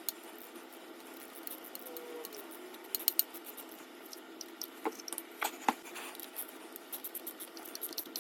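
Wrench tightening the nuts on a car starter's wire terminals: scattered small metallic clicks and ticks at an uneven pace, a few louder ones about three seconds in and again around five to six seconds, over a steady low hum.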